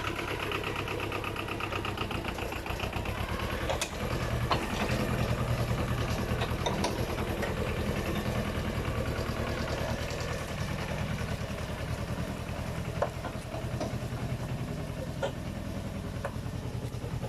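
Yanmar YM2000 tractor's diesel engine running steadily. It grows louder for several seconds about four seconds in, and a few sharp knocks sound over it.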